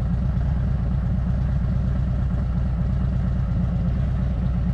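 Motorcycle engine running steadily at low revs, a low, even pulsing with no change in pitch.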